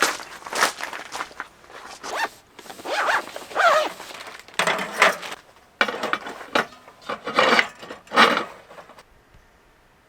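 A run of scraping, rustling handling noises, about a dozen separate strokes, some with a short gliding pitch, stopping about nine seconds in.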